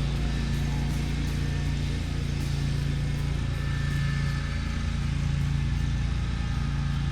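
A motor running steadily: a continuous low drone with an even pitch.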